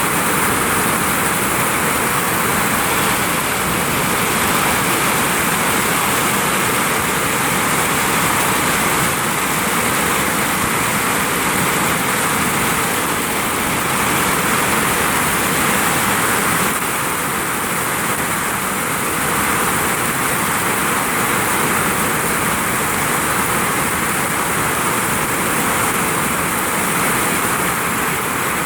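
Heavy rain falling on a vinyl roof: a loud, steady, dense hiss that eases slightly a little past the middle.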